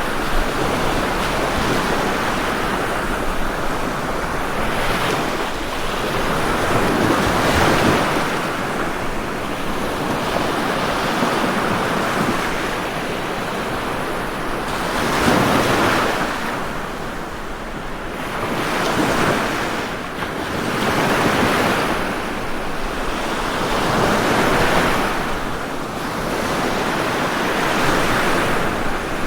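Ocean surf breaking and washing in continuously, swelling louder every few seconds as each wave comes in.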